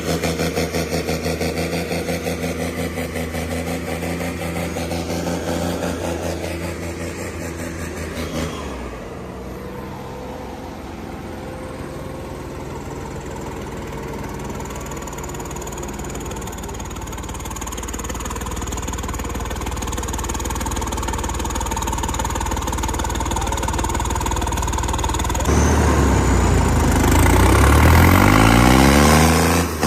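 Tractor diesel engine running steadily, its note dropping and settling about eight seconds in, then getting louder and revving up and down near the end.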